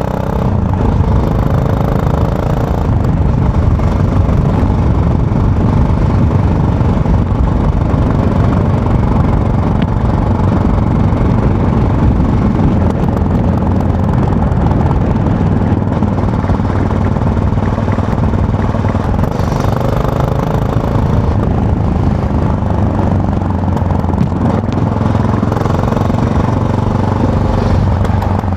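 Yamaha MT-03 motorcycle engine running under way, its note rising and falling a few times with throttle and gear changes. A steady rush of wind and road noise runs under it.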